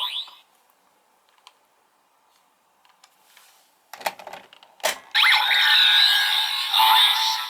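Electronic sound effects from a Kamen Rider Gavv DX transformation belt toy. A few plastic clicks of the toy being worked come about four seconds in, then a loud electronic sound with musical tones starts about five seconds in and lasts about two and a half seconds.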